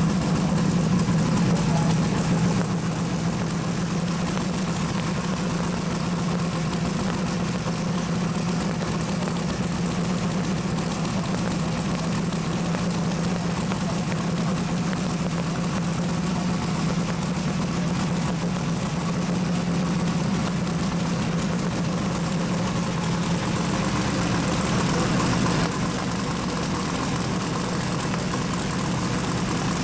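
Twin-turbocharged drag car engine idling steadily during its warm-up, a low even note that barely changes.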